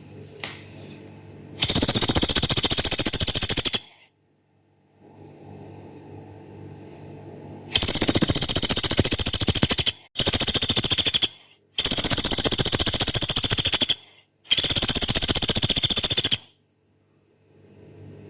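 Pelatuk beras woodpecker giving five long, very rapid rattling bursts, each lasting about one to two seconds, with short gaps between them, over a faint steady background hiss.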